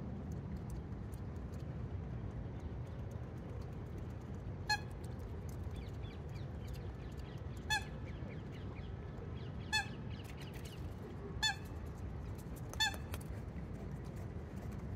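A bird gives five short, separate calls a couple of seconds apart, starting about five seconds in, over a steady low background noise.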